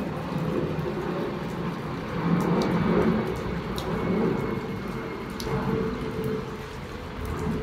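Steady rain falling, with a few scattered sharp ticks of drops striking close by.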